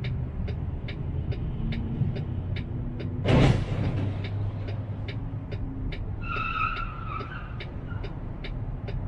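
Car running, heard from inside, with a steady low rumble and a click about two to three times a second, typical of a turn-signal indicator. About three seconds in comes a sudden loud noisy burst lasting half a second, and around six seconds in a high wavering tone lasts about a second.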